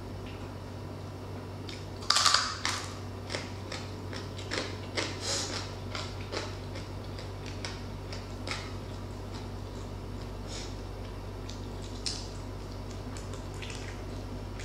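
Crunching of crispy deep-fried pork skin (crispy pata) being bitten and chewed: one loud crunch about two seconds in, a run of smaller crackling crunches for several seconds after, and one more crunch around twelve seconds in.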